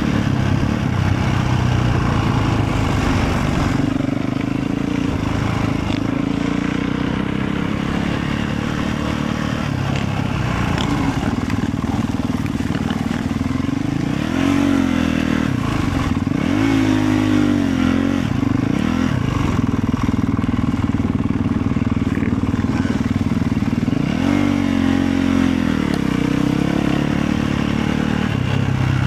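Motorcycle engine running under way, a steady drone whose pitch rises and falls a few times, about halfway through and again near the end, as the throttle is opened and eased off.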